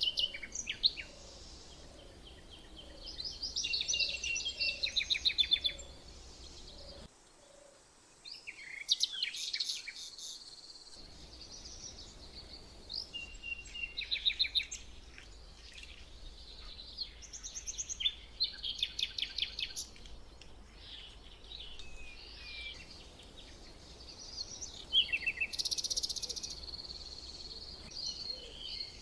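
Several small songbirds chirping and singing, with bursts of quick rattling trills and high chirps throughout, over a faint low hum that drops out for a few seconds about a quarter of the way in.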